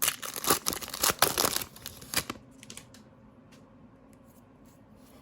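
Trading card pack wrapper being torn open and crinkled: dense crackling for about two seconds, then quieter, with a few faint ticks.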